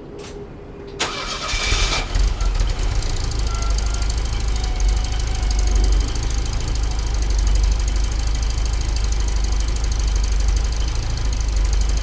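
Car engine cranked by its starter about a second in, catching within a second and then settling into a steady idle with a deep low rumble. The engine is still cold.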